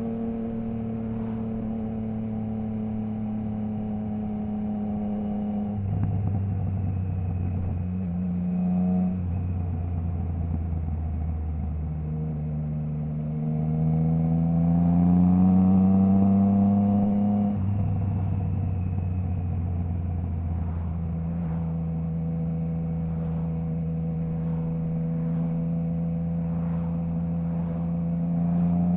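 Triumph Trident 660's inline three-cylinder engine through a Zard stainless full exhaust with the baffle removed, heard from the rider's position. It runs at a steady cruise, drops in pitch about six seconds in, then climbs steadily under acceleration until a sudden drop in pitch at an upshift about two-thirds of the way through, and settles back to steady running.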